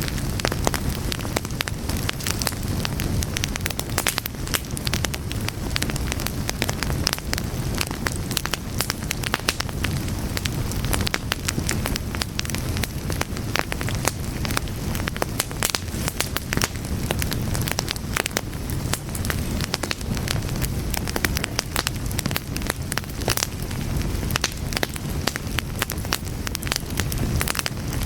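Fire crackling steadily, with many small irregular pops and snaps over a low, steady rumble of flames.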